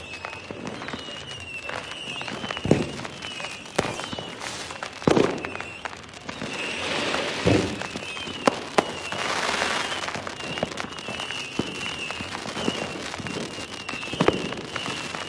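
Fireworks going off: several deep booms of bursting shells, the loudest about five seconds in, with two stretches of hissing crackle around the middle. A faint wavering high tone runs underneath.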